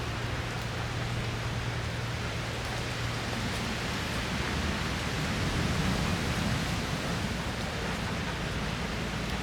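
Heavy rain with wind, a steady hiss, with a low rumble that swells slightly about six seconds in.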